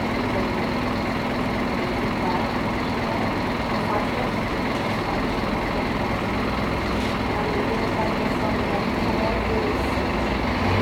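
Diesel engine of a Scania K310IA articulated bus running steadily with road and traffic noise, with no rise or fall in pitch or level.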